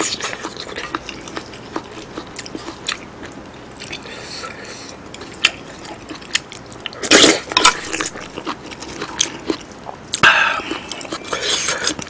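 Close-miked chewing of a mouthful of abalone curry and rice, with many small clicks and a few louder bursts about seven and ten seconds in.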